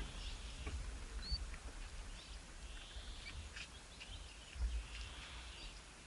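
Small birds calling, with scattered short chirps and high call notes, over a low rumble, and a brief low thump near the end.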